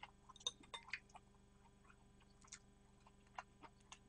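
Faint, scattered mouth clicks and wet smacks of someone chewing food close to a microphone, bunched in the first second and then a few single clicks.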